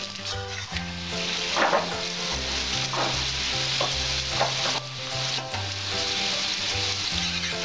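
Potato sticks sizzling steadily as they fry in hot mustard oil in a metal kadai. A metal spatula stirs them and scrapes the pan a few times in the first half. The potatoes are fried golden and nearly done.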